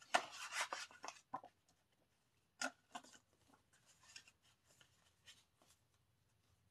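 Cardboard and paper album packaging being handled and slid back together: a rustling scrape in the first second, a sharp tap a little later, then faint scattered rustles and taps.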